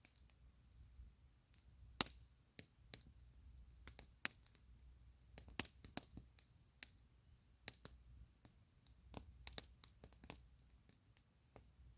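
Campfire wood crackling: irregular sharp pops and clicks, a dozen or more, the loudest about two seconds in, over a faint low rumble.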